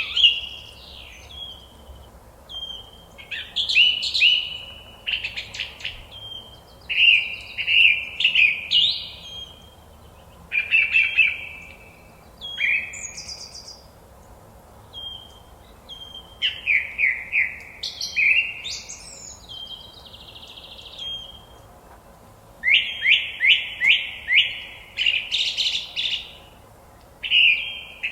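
Forest songbird song: short, varied whistled phrases with pauses between them, some phrases made of quick runs of repeated notes, over faint background ambience.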